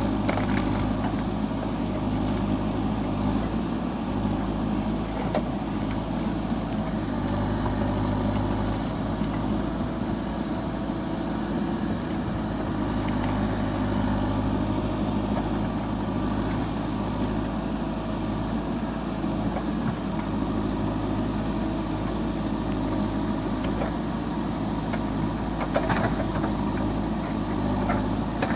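A JCB 4CX backhoe loader's diesel engine running steadily, with a higher whine that rises and falls every few seconds as the machine works. A few short knocks come near the end.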